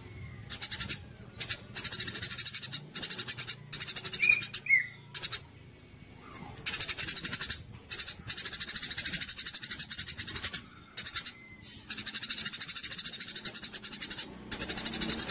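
Small songbird singing in bursts of very rapid, high chattering trills, each about one to two seconds long with short pauses between them. A few short, lower whistled notes come in the first five seconds.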